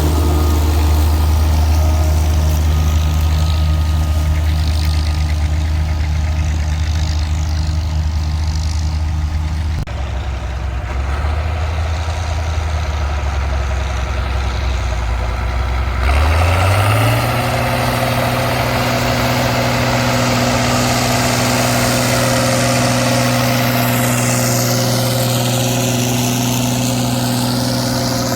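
Tractor engine running steadily at low speed. About sixteen seconds in it speeds up, then holds at a higher, steady pitch.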